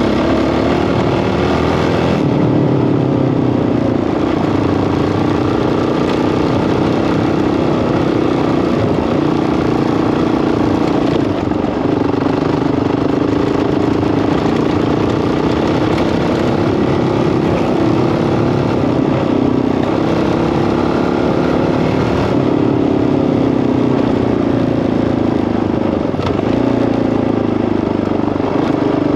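Single-cylinder four-stroke Honda CRF dirt bike engine running under way, its pitch rising and falling as the throttle is worked, with a few clear changes in engine speed such as gear shifts.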